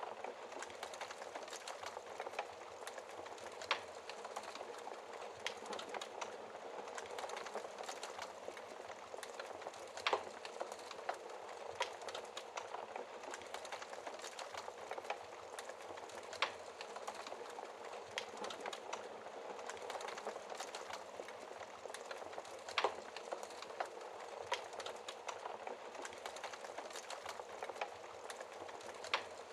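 Wood fire crackling in a fireplace: a steady hiss with many irregular small pops, and a louder snap every few seconds.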